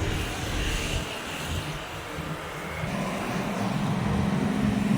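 Street traffic: a vehicle engine hums over the general road noise and grows louder in the second half as it draws near.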